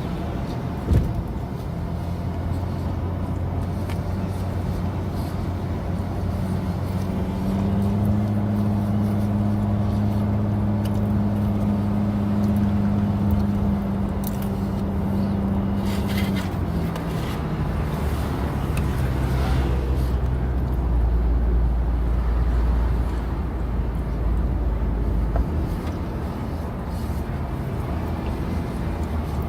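Car driving, with steady engine hum and road noise. The engine note steps up about a quarter of the way in and drops again about halfway through. There is one short sharp click about a second in.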